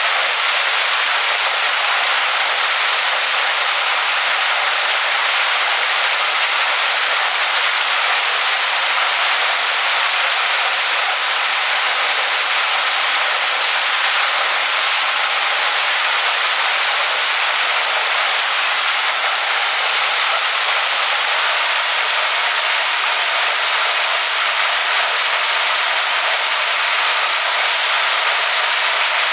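Waterfall splashing onto rocks: a steady, even rush of falling water, mostly high and hissing with little deep rumble.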